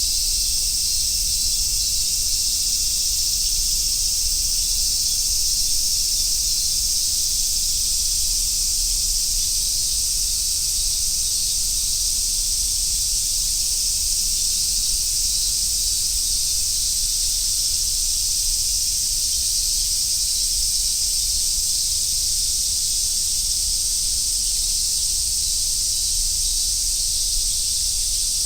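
Chorus of cicadas, large brown cicadas and robust cicadas, buzzing in a continuous high-pitched drone with no breaks, over a faint low rumble.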